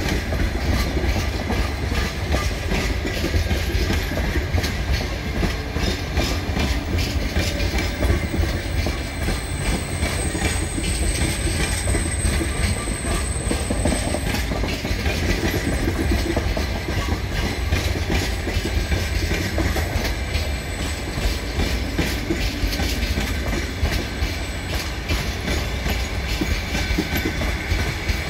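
Passenger coaches rolling past, their wheels running over the rail joints in a steady, continuous clickety-clack over a low rumble. A thin high squeal sounds for several seconds about a third of the way through.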